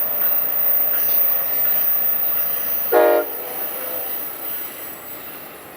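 Amtrak Pacific Surfliner passenger train running past, a steady rush of train noise that fades toward the end as it moves away. One short horn toot about three seconds in.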